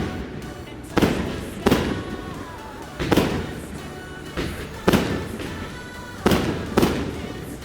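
Fireworks bursting one after another: about seven sharp bangs at irregular intervals, each followed by a fading tail.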